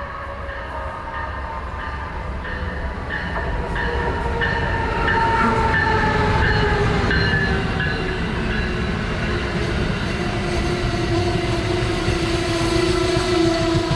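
Train approaching and running past, growing louder over the first several seconds. A steady whine slides slowly down in pitch over a low rumble, with a light regular clicking in the first few seconds.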